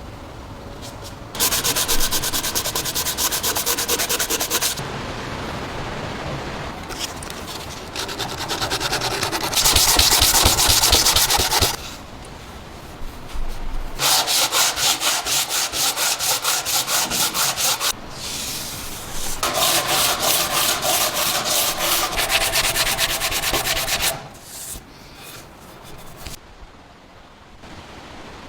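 Hand sanding: an abrasive rubbed back and forth in quick, even strokes, in four bouts of a few seconds each with short pauses between.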